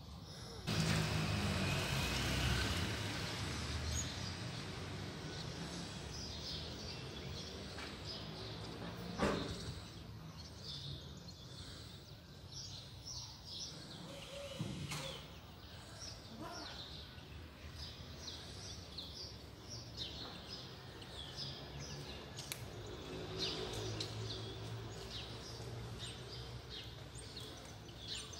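Small birds chirping in short, repeated calls over a steady low hum of street background noise. A loud rushing noise fills the first few seconds, and there are two sharp knocks in the middle.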